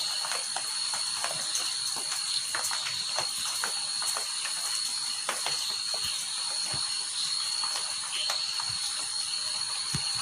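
Rain falling in scattered drops and drips, ticking irregularly, over a steady high chirring of insects.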